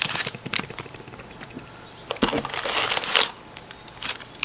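Hockey card pack wrappers crinkling and rustling as the packs are handled and taken out of their box, with light taps and clicks; a louder bout of rustling a little over two seconds in.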